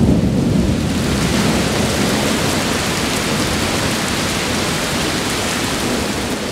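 Heavy rain pouring down steadily in a thunderstorm, with the tail of a low thunder rumble dying away in the first second.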